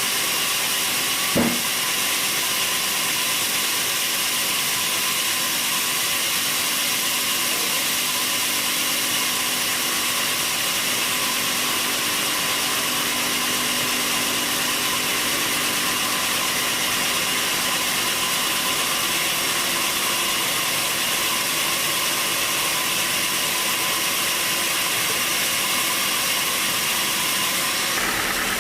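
Sawmill machinery running steadily with a high, even hiss and a constant hum, and a single sharp knock about a second and a half in.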